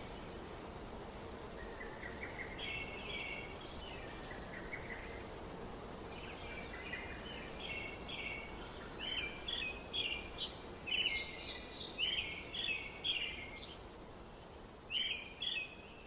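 Small birds singing in short, repeated chirping phrases over a steady outdoor background hiss; the song is sparse at first and thickest in the second half.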